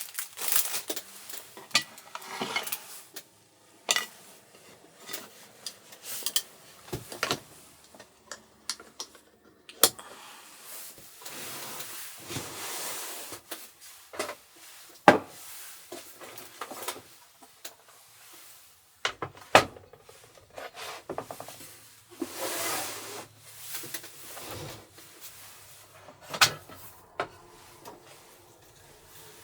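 Dishes and utensils being handled: scattered clinks and knocks, some sharp and loud, between short stretches of rubbing and scraping.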